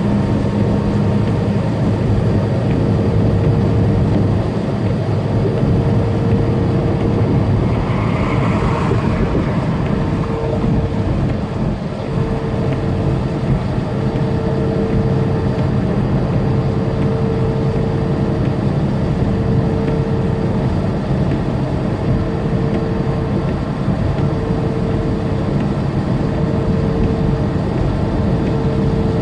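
Big rig running down the interstate, heard from the cab: a steady drone of diesel engine and road noise with a steady whine in it. A brief hiss swells and fades about eight seconds in.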